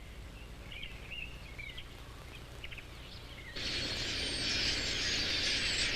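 Faint bird chirps in a quiet natural soundscape, then about three and a half seconds in a steady high hiss cuts in suddenly and carries on, with faint high chirps above it.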